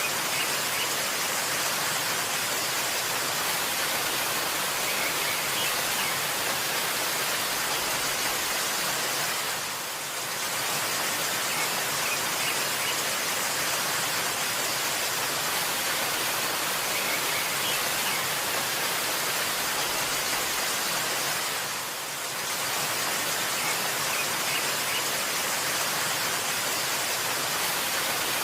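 Waterfall's steady rushing noise, dipping briefly twice, with a few faint bird chirps now and then.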